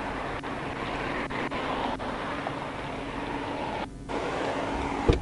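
Steady vehicle running noise with a low hum and a few light clicks, a brief dip about four seconds in, and a single thump near the end.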